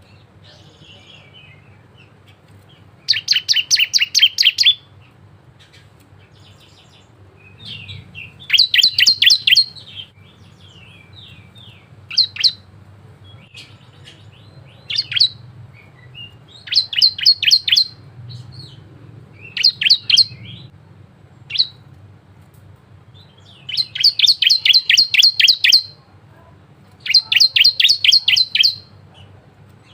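Bar-winged prinia (ciblek) singing: bursts of rapid, evenly repeated high chirps, each burst lasting one to two seconds, with short single notes in the gaps between them.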